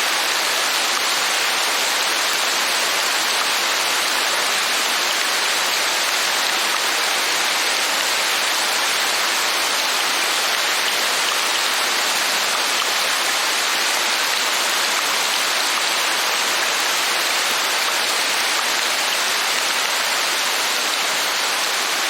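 Steady rain falling, an even unbroken hiss with no separate drops, thunder or other events standing out.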